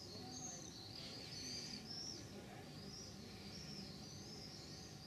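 Small birds singing: a steady run of high, arching chirps, one after another, over faint outdoor background noise.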